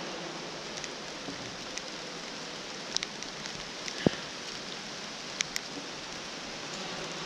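Steady rain falling, with scattered sharp taps through it, the loudest about four seconds in.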